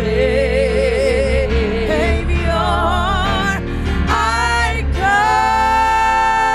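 Gospel music: a solo voice singing with strong vibrato over instrumental accompaniment, ending on one long held note.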